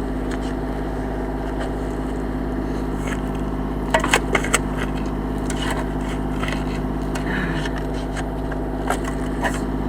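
Loader's engine running steadily while digging out railway ties, with a few short sharp knocks about four seconds in and another near the end.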